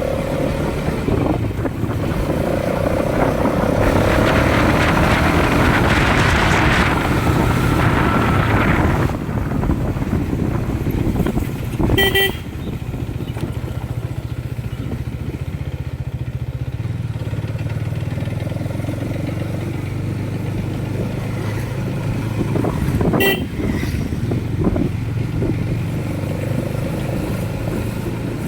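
Motorcycle engine running steadily on the move, with two short horn beeps, about twelve and twenty-three seconds in.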